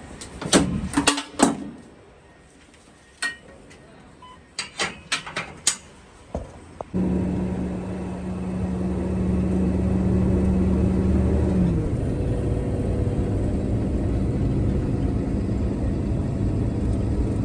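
Several sharp clunks and clicks, then about seven seconds in a box truck's engine starts and runs with a steady low hum that settles slightly lower in pitch a few seconds later.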